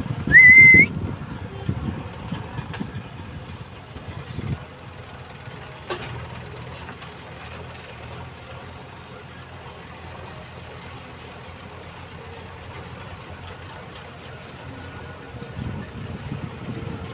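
Heavy machinery engine running steadily, heavier for the first few seconds and again near the end. A brief loud, wavering high whistle sounds just under a second in.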